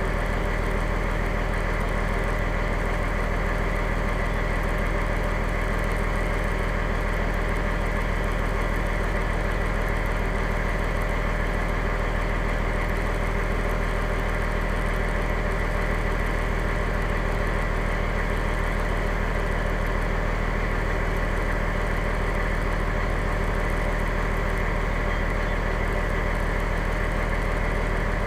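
Fire engine's engine running at a steady, unchanging speed.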